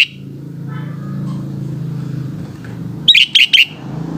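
Sooty-headed bulbul calling: one short loud note at the start, then a quick run of four loud notes about three seconds in, over a steady low hum.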